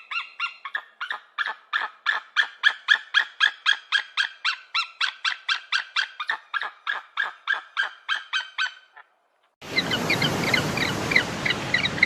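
A bird giving a rapid series of honking calls, about four a second, that stops abruptly. After a short gap, high chirping calls start over a steady hiss near the end.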